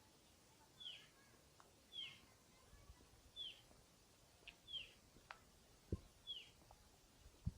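A songbird repeating a short, falling call five times, about every second and a half. Two short low thumps come near the end, the second the loudest sound in the stretch.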